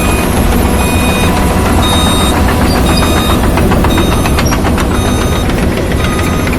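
Hydraulic excavator's diesel engine running loud and steady as the machine travels, with brief high squeals and, from about the middle on, rapid metallic clicking.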